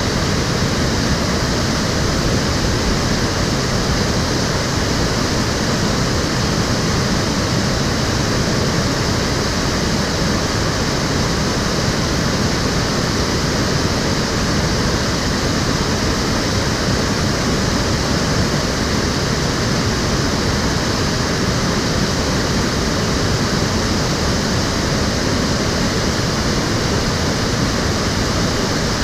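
Water of an urban stream flowing and splashing, a steady, even rush with no break.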